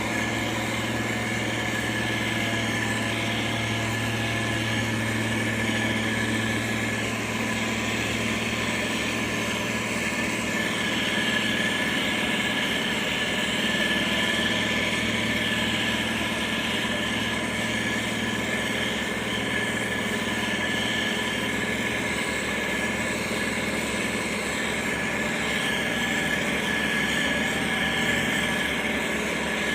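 Diesel engine of heavy road-construction machinery running steadily with a continuous hum, with no sudden changes.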